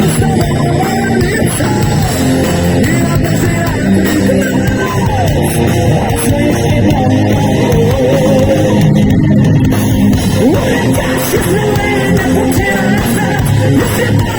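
Live heavy metal band playing loudly and continuously, with electric guitar and a wavering melodic line over the dense band sound.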